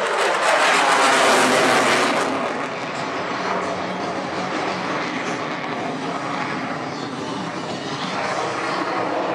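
F-16 fighter jet's engine noise during a display pass, loudest in the first two seconds and then a steady, slightly quieter jet roar.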